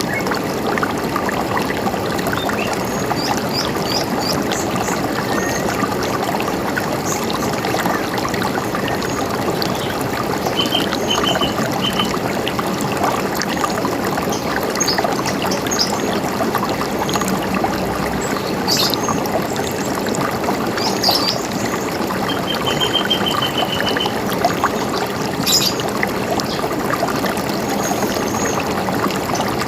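River water running steadily, with birds chirping now and then above it, including a few short series of repeated high notes.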